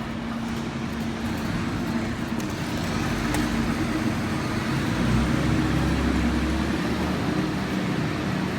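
Steady motor-vehicle traffic noise, engines running with a low hum. It grows a little louder from about three seconds in, with a deeper rumble near the middle.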